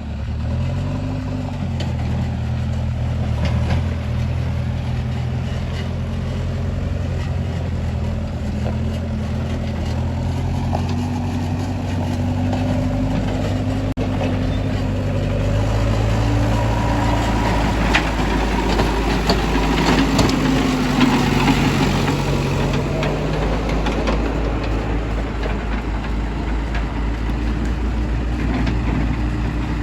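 Heavy diesel engines of a JCB backhoe loader and truck running. The engine pitch steps up and down as the machine is worked, and there is extra clatter for a stretch about halfway through.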